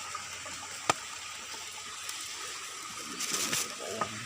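A steady, even rushing hiss like running water, with a faint high steady tone over it and one sharp click about a second in.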